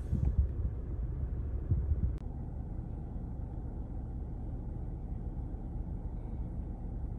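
Car engine running, heard as a steady low rumble inside the cabin. A few soft thumps come in the first two seconds, and a faint click about two seconds in.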